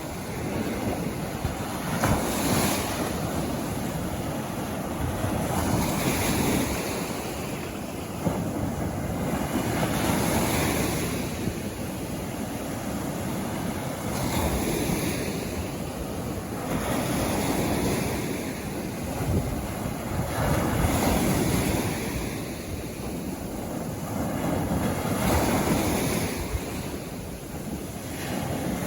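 Sea waves breaking on a beach, the surf swelling and washing back every four or so seconds, with some wind noise on the microphone.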